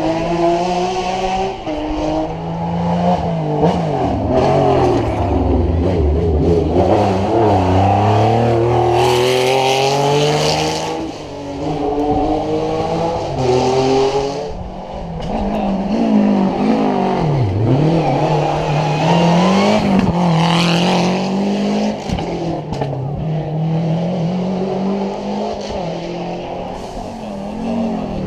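Historic rally car engine at full throttle on a stage, revving up through the gears in repeated rising sweeps with drops at each shift. A little past the middle the pitch falls deeply and then climbs again as it brakes, downshifts and accelerates away.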